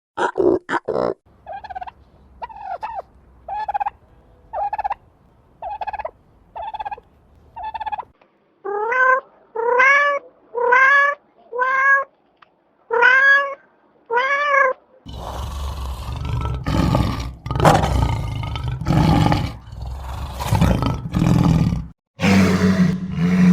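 A sequence of different animal calls. Short grunts open it, followed by a run of short pitched calls about every 0.7 seconds. Next comes a series of longer calls that rise and then fall in pitch, and from about two-thirds of the way in, loud rough calls repeated every second or so.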